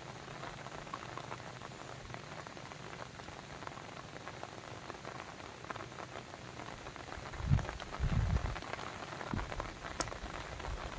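Water pattering steadily, a dense hiss of fine drips and splashes. About two-thirds of the way in, a few louder low rumbling thumps break through.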